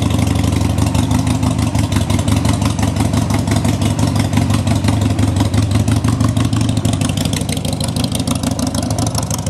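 Motorcycle engine running loud and steady at low revs, with an even, rapid firing pulse.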